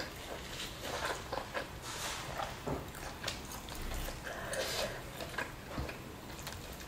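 Close-up chewing of spicy duck meat, with many short wet smacks and clicks from the mouth.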